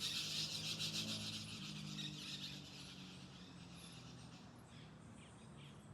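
Birds chattering and calling in a dense, rapid, high-pitched clamour, loudest in the first couple of seconds and then fading, over a low steady hum. The calls come just ahead of a thunderstorm and are taken as the birds' warning of the coming rain.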